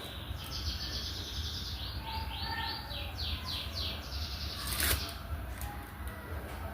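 A songbird calling in a quick series of high chirps and short downward-sweeping notes, with a single sharp click about five seconds in, over a steady low hum.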